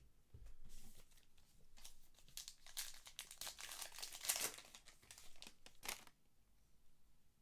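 Plastic trading-card pack wrapper being torn open and crinkled by hand: a run of crinkling and tearing from about half a second in that stops about six seconds in.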